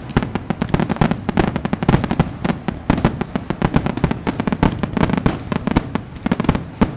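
Fireworks display going off nonstop: a dense run of bangs and crackling pops, many per second, with no break.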